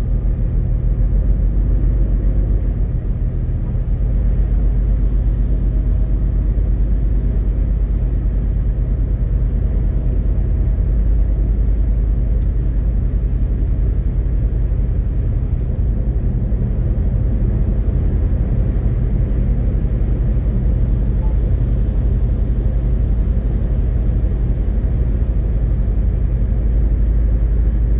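MAN TGX 18.520 truck's six-cylinder diesel engine and road rumble while driving along steadily, a constant low drone with a brief slight dip about three seconds in.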